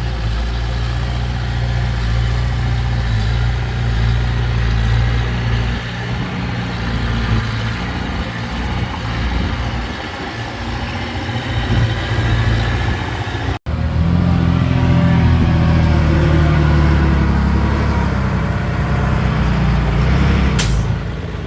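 Heavy diesel engines of earthmoving machinery running steadily. About halfway through the sound cuts out abruptly and comes back deeper and louder. A brief sharp burst comes near the end.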